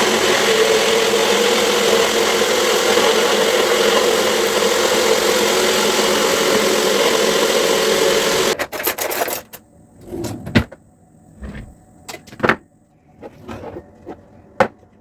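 A loud, steady whir of a small electric motor, like a kitchen or household appliance, running for about eight and a half seconds and then switched off abruptly, followed by several light clicks and knocks.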